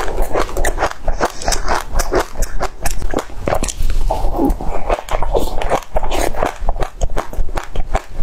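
Close-up wet chewing and lip-smacking of a soft, creamy dessert topped with black sesame seeds, with quick mouth clicks throughout and a spoon scooping from a plastic tub.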